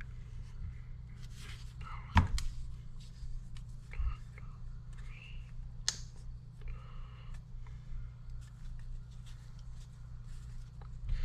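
A few sharp clicks and knocks of hydraulic cylinder parts and tools being handled, the loudest about two seconds in, over a steady low hum.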